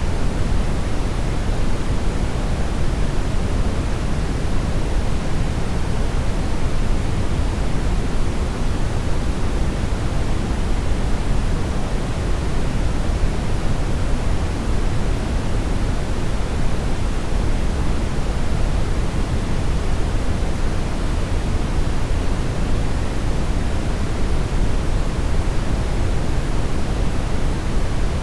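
Steady synthetic brown noise: an even, deep rushing hiss with most of its weight in the bass and little at the top, unchanging throughout.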